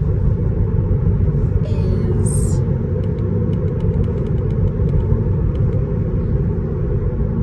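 Steady low road and tyre rumble inside the cabin of a moving Tesla Model 3, with faint light ticks a few seconds in.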